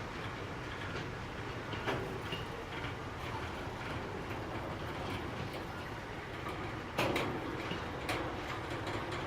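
Freight train wagons rolling past on the rails: a steady rolling noise broken by sharp clanks about two seconds in and, louder, about seven seconds in.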